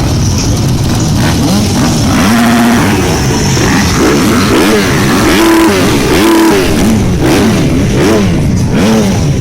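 Several motocross bikes' engines revving, overlapping, each climbing and dropping in pitch again and again as the riders work the throttle and shift gears.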